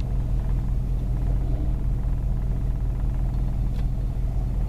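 Steady low engine rumble heard from inside a car's cabin while stopped in traffic.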